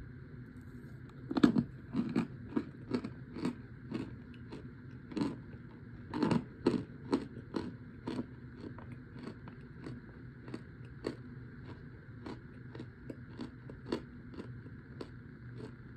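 Chunks of dried cornstarch being bitten and chewed. A loud crisp crunch comes about one and a half seconds in, then a run of crunches two or three a second that grow softer through the second half.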